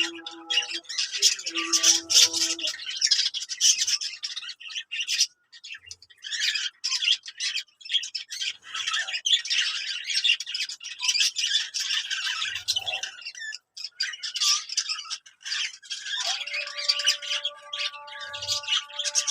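Budgerigars chattering continuously in rapid, high, scratchy warbles and clicks, dropping out briefly twice. Steady held tones sit underneath near the start and again for the last few seconds.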